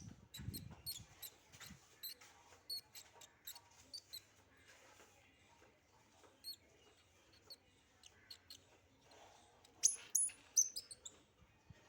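Baby squirrel squeaking: short, high-pitched chirps repeated again and again, the loudest of them in a quick cluster near the end.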